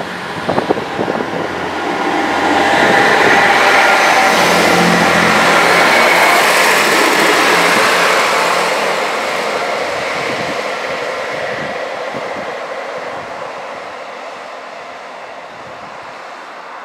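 Northern Class 158 diesel multiple unit passing close at speed: diesel engine hum and wheel-on-rail rush build over about two seconds and are loudest for about five seconds as it goes by, then fade away slowly as it recedes.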